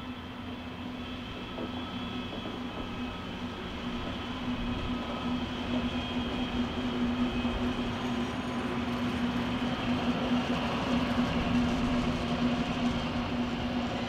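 DR class 112 (V 100) diesel-hydraulic locomotive running past with a steady engine drone that grows louder as it nears, together with the rolling noise of the train on the rails. A regional electric multiple unit passes on the near track toward the end.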